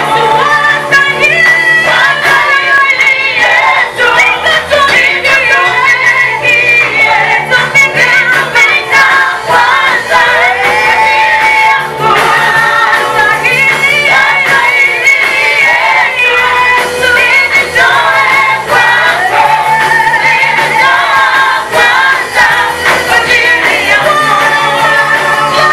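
Gospel choir singing a praise song, with several voices holding and gliding through the melody over instrumental accompaniment with a repeating bass line.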